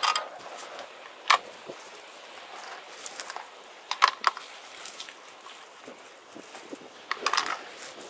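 A few short sharp clicks and knocks, in small clusters about a second in, around four seconds and around seven seconds, over a faint steady hiss.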